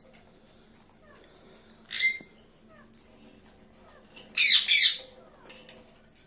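Pet parakeet squawking: one harsh call about two seconds in, then two more in quick succession about four and a half seconds in, with faint short chirps between them.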